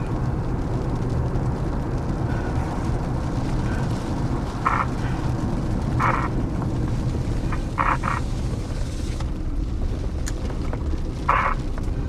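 Strong wind rumbling and buffeting against the microphone as a tornado passes close by. A few short croak-like calls break through about five seconds in, again around six and eight seconds, and near the end, along with a couple of sharp clicks.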